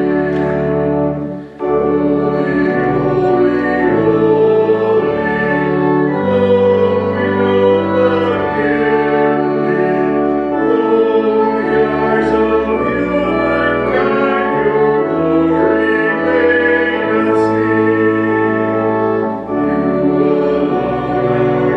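Church music, a hymn in slow sustained chords that change every second or two. There are brief breaks about a second and a half in and again near the end.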